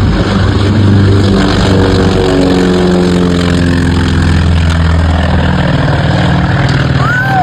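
Piston-engine propeller aircraft flying past, loud, its engine note dropping steadily in pitch as it goes by, then settling into a steady lower drone.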